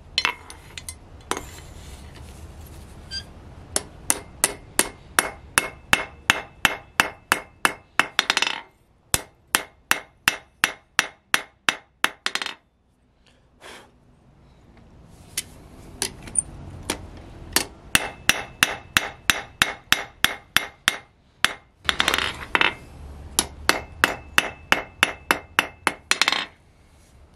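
Hand hammer striking hot spring steel on an anvil: quick runs of blows, about four a second, each with a short ring, broken by brief pauses while a knife blank is forged.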